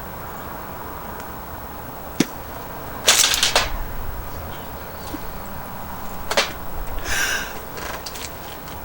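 Handling sounds from a small plastic candy barrel of hard sour candies: a sharp click, then a short clattering rattle a little after three seconds in, another click, and a brief rustle near the end.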